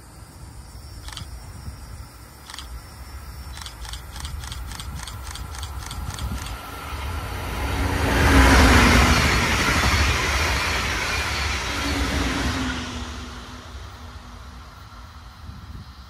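Brightline diesel-electric passenger train approaching and passing at speed. The rumble and rush of the wheels on the rails swell to a peak about eight to nine seconds in, then fade as it goes away.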